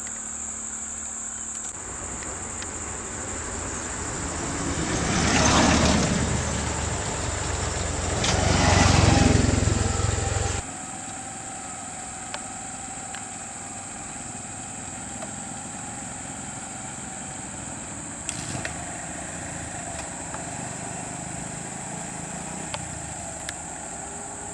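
A motor vehicle's engine swells up twice, loudest about five and nine seconds in, then cuts off abruptly. A steady high-pitched drone runs underneath.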